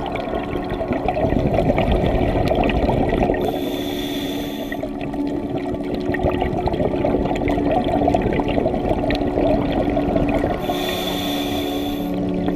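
Scuba diver breathing through a regulator underwater: a hissing inhale twice, with the bubbling rumble of exhaled air between, over a steady low hum.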